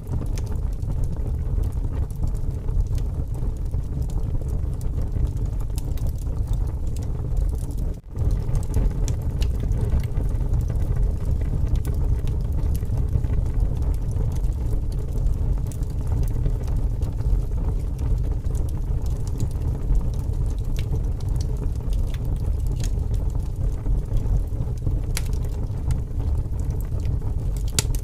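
Wood fire burning in strong wind: a steady low wind rumble with scattered small crackles and pops from the burning logs. The sound briefly drops out about eight seconds in.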